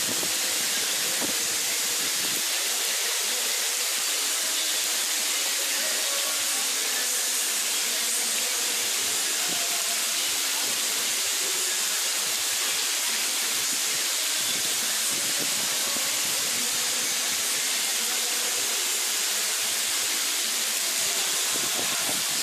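Heavy, steady rain falling, an even hiss that holds at one level throughout.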